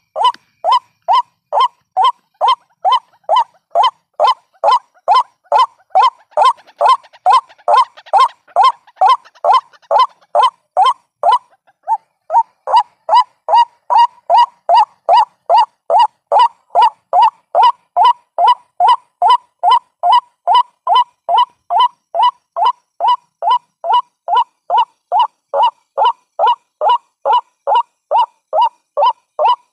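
White-breasted waterhen calling, a recording played as a trapping lure: a monotonous string of harsh notes repeated about two and a half times a second, with a short break about twelve seconds in.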